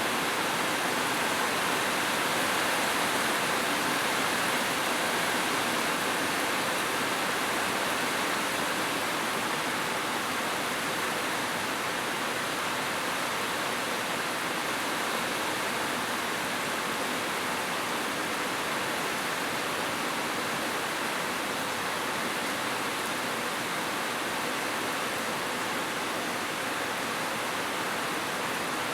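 Steady rain falling, an even hiss of many drops with no separate patters or thunder.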